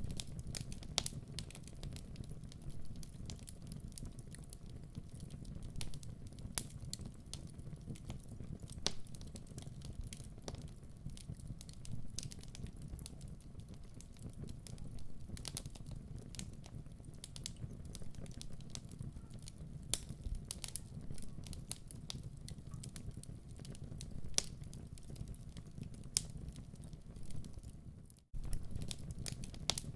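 Wood fire crackling in a fireplace: frequent irregular sharp pops and snaps over a low steady rumble of the flames. The sound drops out for a moment near the end.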